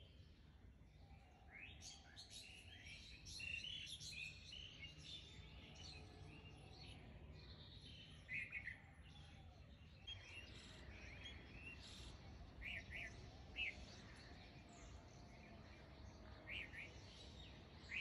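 Faint birds chirping outside: short high chirps, often in quick pairs, scattered every second or two over a low background hum.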